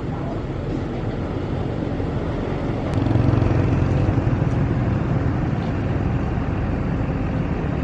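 Steady low rumble of a running vehicle engine, growing louder about three seconds in.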